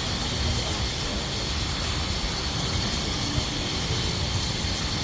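A train on the move: a steady, even rumble of wheels running on the rails, with no distinct beats.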